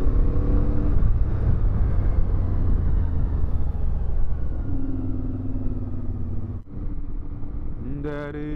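CFMoto 450MT parallel-twin motorcycle engine running under way, climbing slightly in pitch in the first second as it pulls. Heavy wind rumble sits on the rider's microphone. The sound drops out briefly for an instant about two-thirds of the way through.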